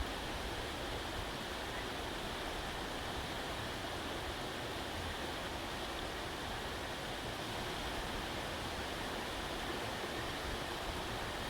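Steady, even rushing noise, like flowing water or wind, with no crackles or pops standing out.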